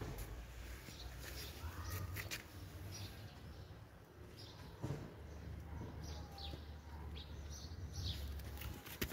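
Small birds chirping faintly and intermittently over a low outdoor rumble. A sharp click comes just before the end.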